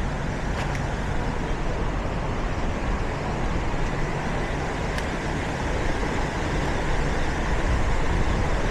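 Steady road traffic noise in a town street, with a low rumble underneath and a couple of faint clicks.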